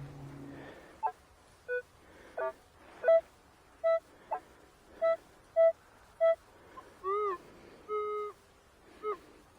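Metal detector giving about a dozen short target beeps at differing pitches as the coil is swept over the ground. Near the end come a few longer tones, some with a quick bend in pitch.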